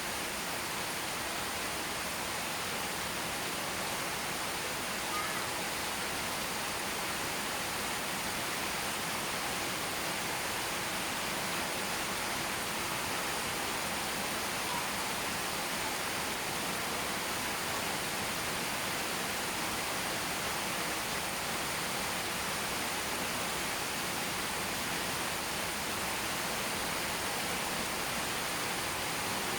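Steady, even hiss of heavy rain falling, with no single drops standing out.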